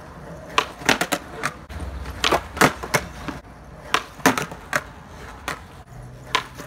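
Skateboard on concrete: wheels rolling with a low rumble, and a string of sharp clacks as the board is popped off the tail or nose and lands.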